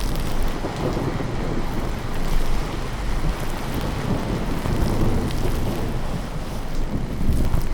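Steady rain with low rolling thunder rumbling under it, swelling and easing, from a recorded thunderstorm ambience.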